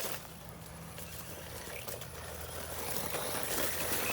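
Small brushless electric RC buggy running on dirt, its motor and tyres working the ground, getting louder toward the end.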